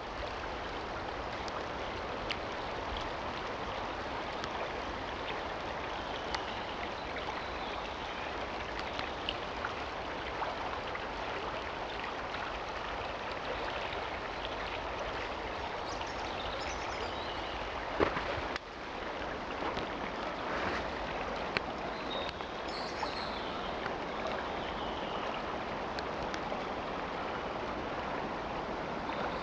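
Steady rushing of a small forest stream, with a few faint bird chirps over it and a single sharp knock about eighteen seconds in.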